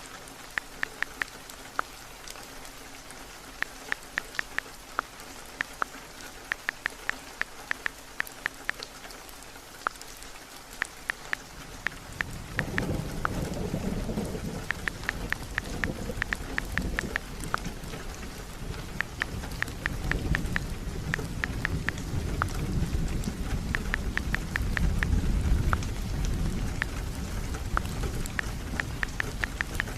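Steady heavy rain with a scattering of sharp light taps throughout. About twelve seconds in, a low rumble of thunder rolls in and carries on, swelling again later.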